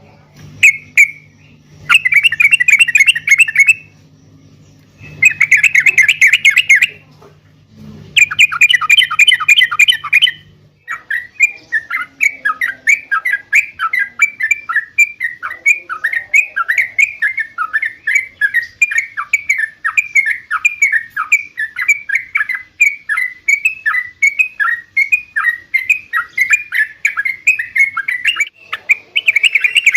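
Yellow-vented bulbul (trucukan) song: loud bursts of rapid chattering phrases for the first ten seconds or so, then a long run of short downward-slurred notes, about three a second, and another chattering burst near the end. A low steady hum sits under the first third.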